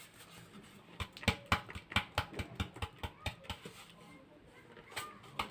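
Light clicking taps of a kitchen utensil against a bowl, about four a second starting about a second in, then a pause and a few more clicks near the end.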